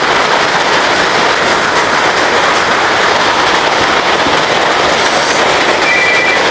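Heavy rain pouring down in a dense, steady hiss. Near the end, a high steady tone starts up in short broken stretches.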